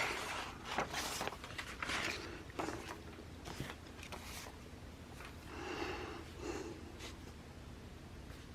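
Faint irregular scratching and rustling of pen and paper on a planner page, such as handwriting a word and handling sticker sheets. A soft breathy sound comes about six seconds in.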